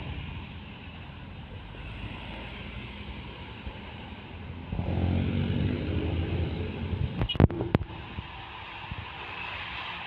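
Steady road traffic, with a heavy vehicle's diesel engine passing close and growing loud about halfway through for a few seconds. A few sharp knocks come near the loudest point.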